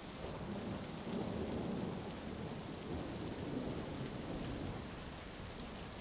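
Heavy rain hissing steadily, with a low roll of thunder that swells up just after the start and dies away about five seconds in.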